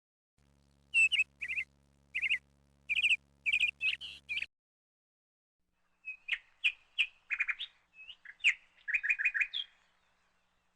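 A songbird singing two phrases of quick, repeated high chirping notes, separated by a pause of about a second and a half.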